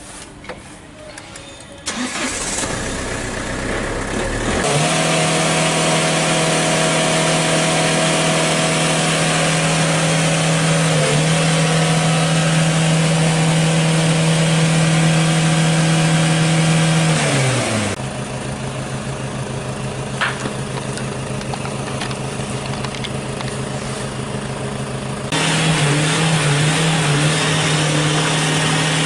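Ford Focus engine starting about two seconds in, then revved hard and held at a steady high pitch for about thirteen seconds, dipping once near the middle. It then drops to a lower steady drone, and near the end is revved up again, the pitch wavering up and down as the accelerator is pumped.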